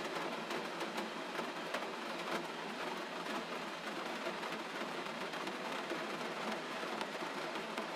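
Gentle rain falling steadily: an even hiss speckled with many small drop ticks.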